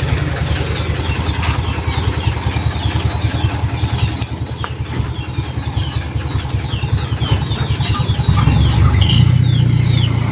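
Mitsubishi Canter HDX dump truck's four-cylinder diesel engine running with a steady low rumble, getting louder about eight seconds in as it is revved.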